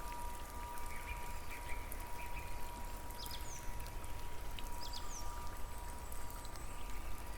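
Nature soundscape: a steady wash of water with a few short, high bird chirps scattered through it, over a faint steady high tone.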